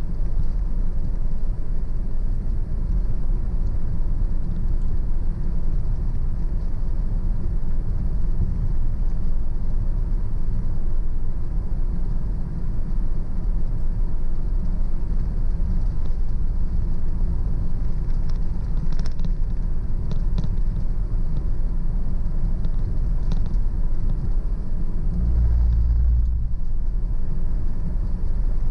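Car driving along a country road: a steady low rumble of road and engine noise, with a brief heavier low rumble about 25 seconds in.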